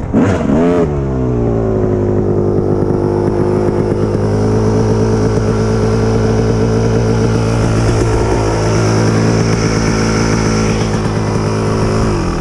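Kawasaki KX250 two-stroke single-cylinder dirt bike engine revved briefly, then running at a steady pitch for about ten seconds before it cuts off near the end.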